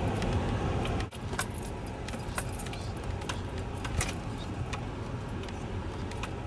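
Four-wheel-drive vehicle crawling through deep snow in low range, its engine and tyre rumble heard from inside the cab. Irregular light clicks and rattles sound over the rumble, and the level drops suddenly about a second in.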